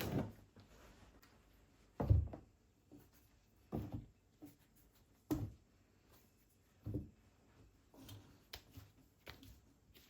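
A series of soft knocks and thuds, about one every second and a half and coming quicker near the end: household objects being handled and set down in a small room.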